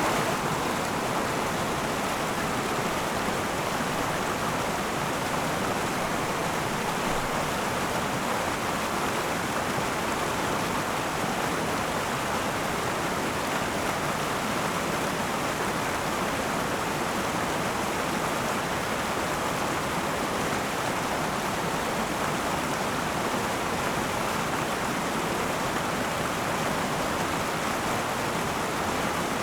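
The Akan River flowing: a steady rush of running water, even and unbroken.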